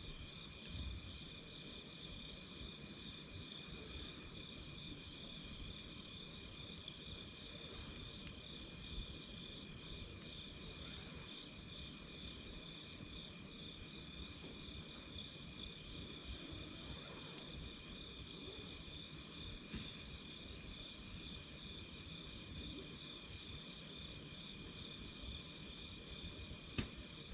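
Steady chorus of crickets trilling, with a low rumble and a few sharp pops from a crackling wood fire, the clearest near the end.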